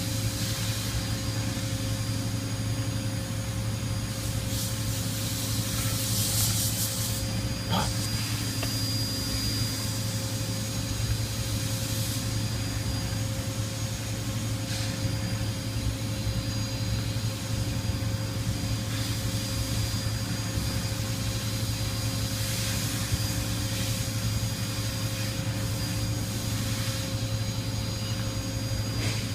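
Toyoda CNC horizontal milling machine running: a steady low machine hum with constant whining tones over it, and short hissing bursts every few seconds.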